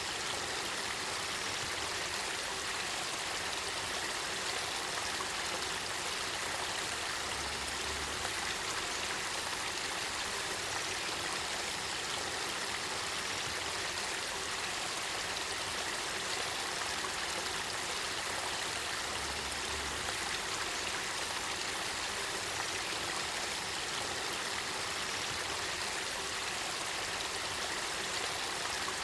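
Clear spring water of the Kakita River flowing and bubbling, a steady babble with no change in level.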